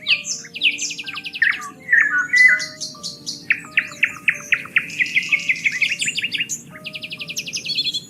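Several songbirds singing over one another, with fast rattling trills and short chirps, over a layer of soft steady low tones.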